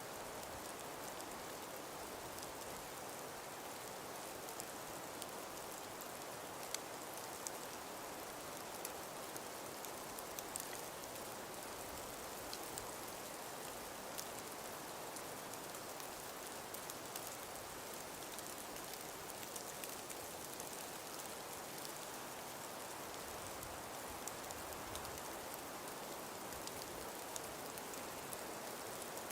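Steady wind hiss through an icy winter forest, with scattered light ticks and patters all through.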